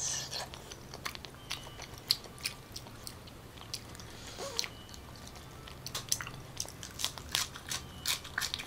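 Close-miked mouth sounds of a person chewing raw salmon, with wet clicks. Near the end come crisper, louder crunches as a leaf of green lettuce is bitten and chewed.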